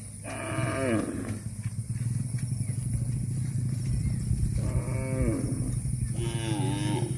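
A cow mooing three times: a call about a second long with falling pitch, then two shorter calls near the end. A steady low hum runs underneath.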